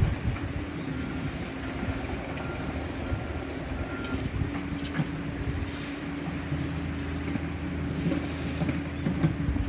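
A steady mechanical hum under wind noise on the microphone, with a few short high beeps in the first few seconds.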